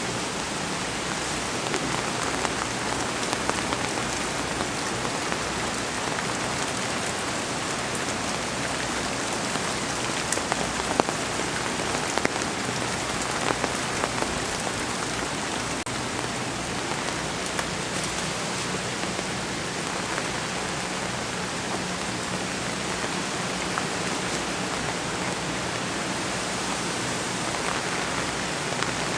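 Steady heavy rain falling and pattering on surfaces, with scattered sharper drops.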